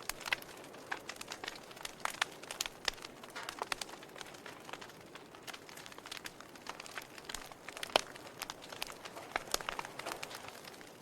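Wood fire crackling: irregular snaps and pops over a soft hiss, with one sharper pop about eight seconds in.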